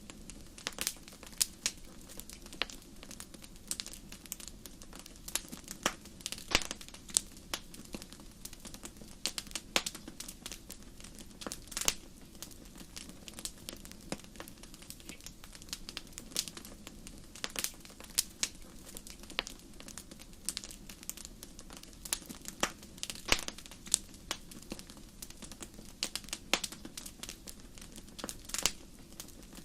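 Wood fire crackling in a fireplace: irregular sharp pops and snaps, a few much louder than the rest, over a steady low rumble of flames.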